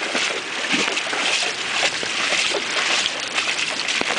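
Floodwater rushing past, a steady hiss of fast-flowing water.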